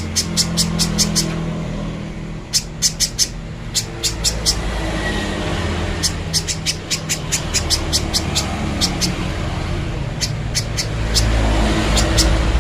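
Spiderhunter calling in quick runs of sharp chips, about five to seven a second, with pauses between the runs. Under them is a steady low engine-like hum.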